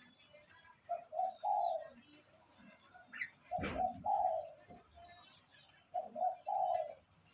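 A dove cooing: three phrases a little over two seconds apart, each two short notes followed by a longer one. A brief knock comes just before the middle phrase, with faint chirps of small birds behind.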